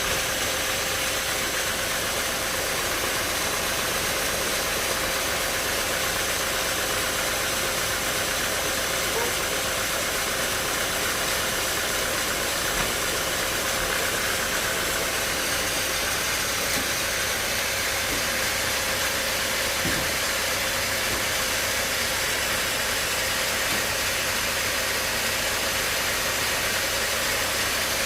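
Sawmill machinery running steadily: an even, constant mechanical noise with a faint steady hum and no breaks.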